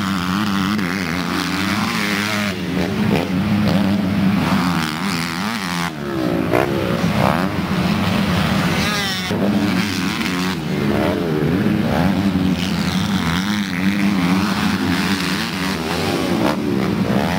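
Motocross dirt bike engines running: one holds a steady note while others rise and fall in pitch as they rev and shift.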